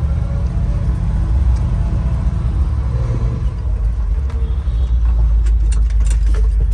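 1972 Chevrolet C60 truck's engine running with a steady low rumble as the truck backs up in reverse. A few sharp clicks come in near the end.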